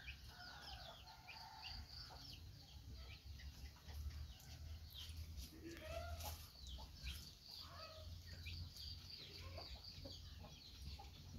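Faint chirping of birds in the background, many short, high, falling peeps repeating all through, with a few lower, louder calls in the middle. A low steady hum runs underneath.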